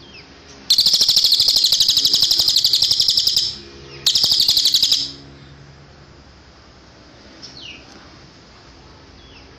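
Cililin songbird singing two loud, very rapid high-pitched trills, the first about three seconds long and the second about a second, followed by a few faint, thin falling call notes.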